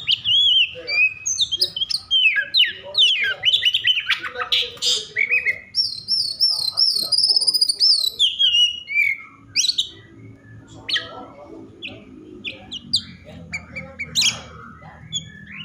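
Oriental magpie-robin singing an excited, aggressive song: dense bursts of sharp, high whistled notes with quick pitch swoops, including a fast run of repeated up-and-down notes about halfway through, then sparser short notes near the end. This agitated song is the kind used to provoke other magpie-robins into singing.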